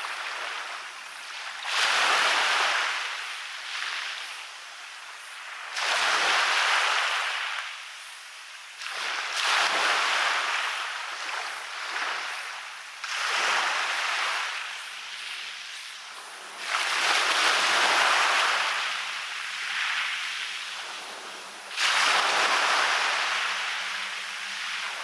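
Waves breaking on a beach and washing back, a fresh surge rushing in about every three to five seconds, six in all, each fading before the next.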